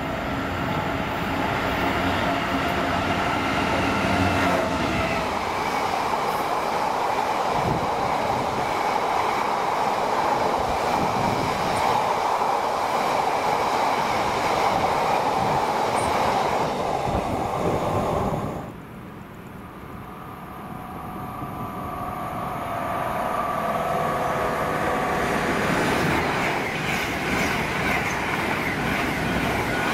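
Train passing on the line with a loud, steady running noise. About two-thirds of the way in the noise drops away sharply, then builds again with a steady whine over the rail noise.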